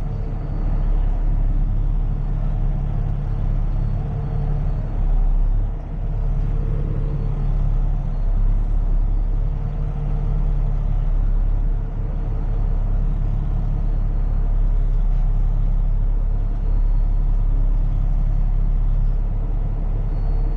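Heavy tow truck's engine running steadily at low revs while the truck is slowly manoeuvred into position, heard from the cab.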